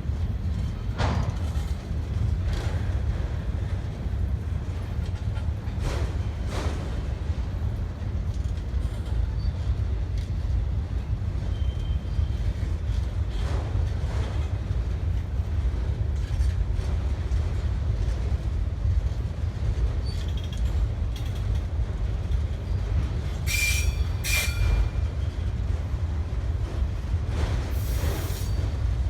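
Freight train cars rolling past with a steady low rumble and occasional knocks from the wheels. Near the end the wheels squeal twice, briefly and high.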